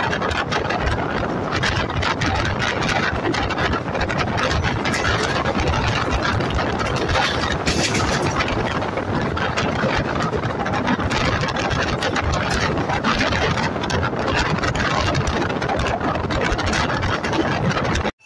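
Kaveri Express passenger train running at speed: a steady, loud rumble and rattle, with a dense clatter of wheel clicks throughout.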